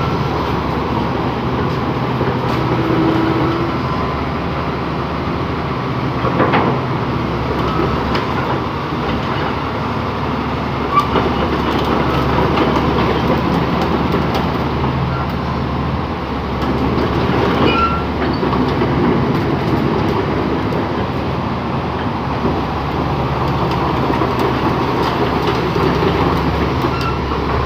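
Komatsu D85 bulldozer's diesel engine running steadily, with metallic clanking and rattling over it.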